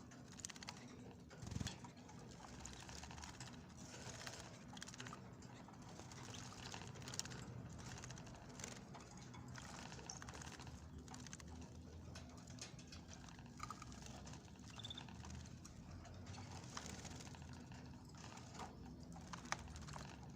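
Small cage birds bathing: a faint, busy patter of little splashes and flicked water droplets, with a couple of short bird chirps near the middle.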